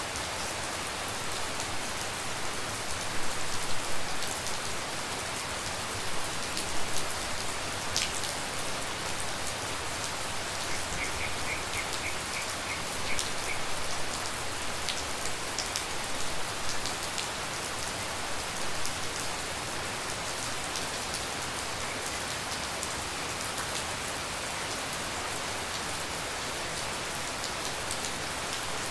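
Steady tropical rain falling, with scattered louder drips and splashes. About eleven seconds in, a short run of quick high chirps repeats for a few seconds.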